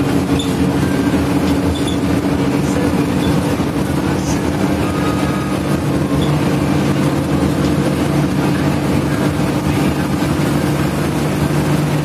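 Coach bus travelling at speed: a steady engine drone over road and tyre noise.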